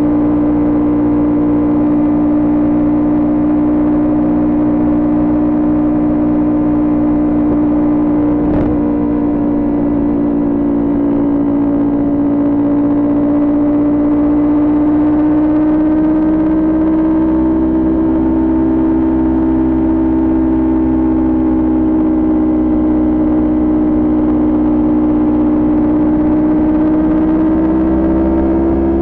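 Kawasaki Ninja 400 parallel-twin engine with aftermarket Coffman exhaust running at a steady cruise from the rider's seat, its note holding nearly constant and rising a little in pitch past the middle. A brief sharp click about a third of the way in.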